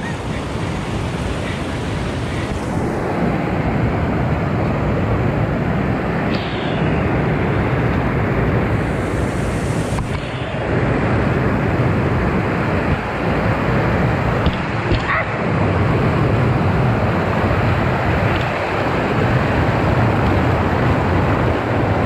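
Steady rush of fast-flowing water, with a few faint knocks about ten and fifteen seconds in.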